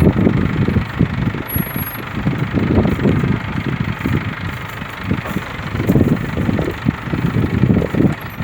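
Gusty wind rumbling on the microphone in uneven surges over a steady rushing hiss, as a rainstorm comes in.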